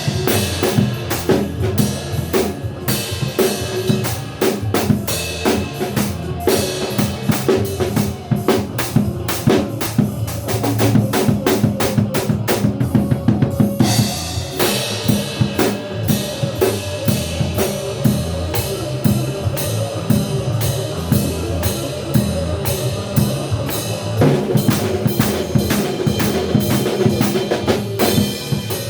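Drum kit played fast and busy, with snare, bass drum and rimshot hits over a recorded rock band backing track.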